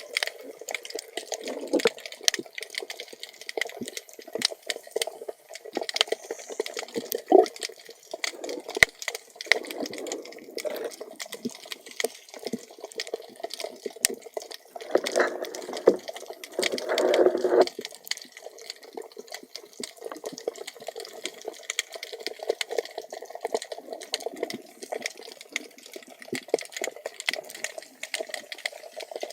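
Water heard through an underwater camera: a steady crackle of sharp clicks over a low murmur of moving water. A louder stretch of gurgling and rushing water comes about halfway through and lasts a few seconds.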